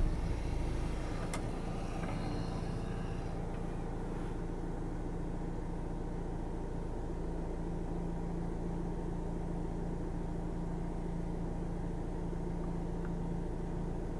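A 2016 Renault Espace's diesel engine idling cold just after starting, heard from inside the cabin: a quiet, steady low hum that settles within the first second, with a faint hiss fading away over the first few seconds.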